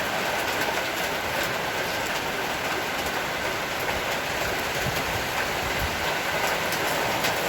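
Heavy rain shower falling steadily, a dense, even hiss.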